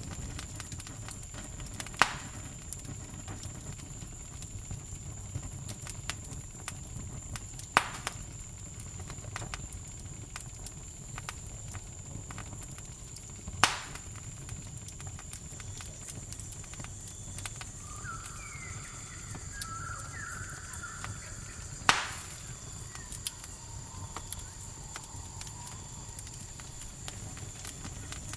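Campfire crackling with a low steady rush, many small crackles and four sharp loud pops spread through. A steady high cricket trill runs underneath, and a few short chirping calls come about two-thirds of the way in.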